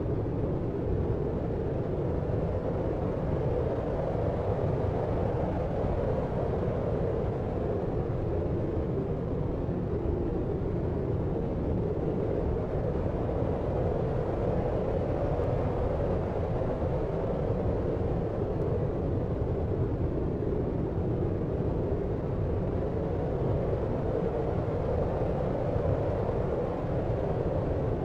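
Deep, steady white noise for sleep, its weight low in pitch like a distant city rumble, swelling and easing slowly without a break.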